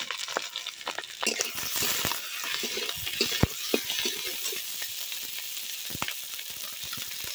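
Chopped tomatoes and fried onions sizzling in hot mustard oil in an iron kadai, stirred with a flat spatula that clicks and scrapes against the pan now and then. The sizzle grows louder about a second in.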